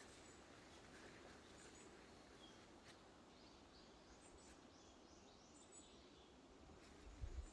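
Quiet forest ambience with faint, distant bird chirps, including a short run of chirps in the middle, and a brief low rumble near the end.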